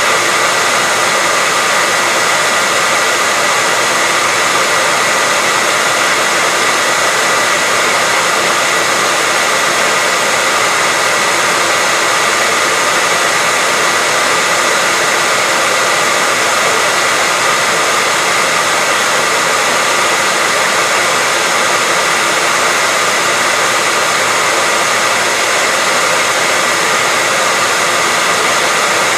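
Hair dryer running steadily: a continuous rush of air with a steady whine over it, unchanging throughout.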